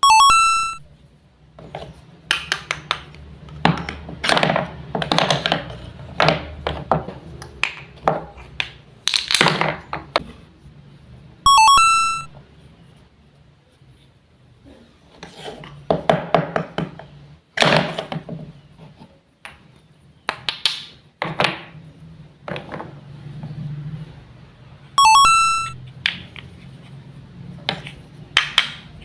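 Wooden toy fruits and vegetables being cut apart with a toy knife: repeated wooden clacks, knocks and scraping as pieces are sliced and set down. A short bright ding rings three times: at the start, about twelve seconds in and near the end.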